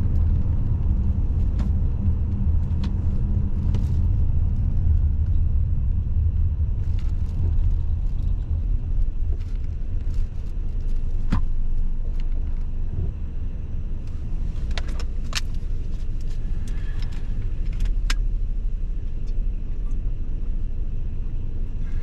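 Car interior noise while driving: a steady low road and engine rumble, with a few sharp clicks scattered through it. The engine's hum eases off about six seconds in.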